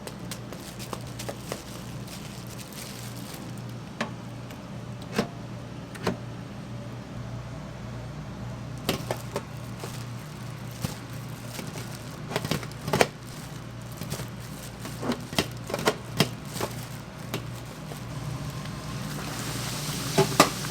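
Restaurant kitchen clatter: scattered sharp clicks and knocks of utensils and dishes over a steady low hum, with a hiss building near the end.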